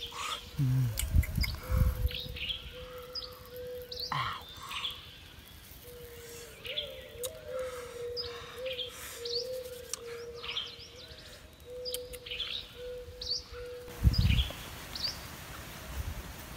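Wild birds chirping, short high calls repeating all through, over a faint steady tone. A few dull low knocks sound about a second in and again about 14 seconds in.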